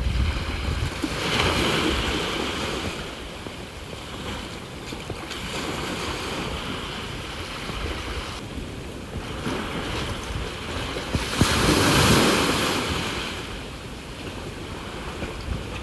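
Sea waves washing ashore in a steady rush, surging twice: once a little after a second in and louder about three-quarters of the way through. Wind buffets the microphone.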